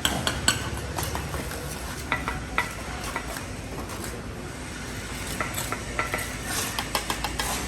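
Irregular sharp metallic clinks and scraping of hand tools against a hard surface, over a steady background hiss.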